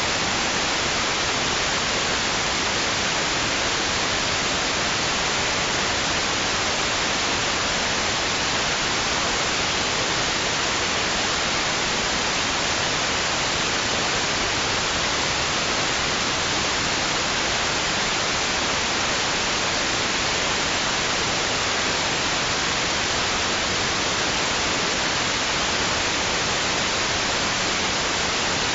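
Steady white noise: an even, unchanging hiss with no rise and fall of waves.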